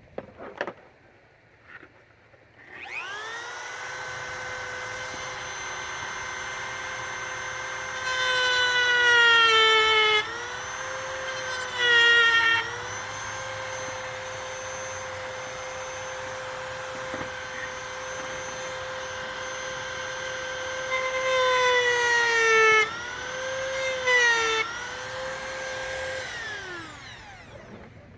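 Dremel rotary tool with a small cutting wheel spinning up to a steady high whine. Its pitch sags several times as it bites into the plastic throttle-control housing to cut a groove, and it winds down near the end.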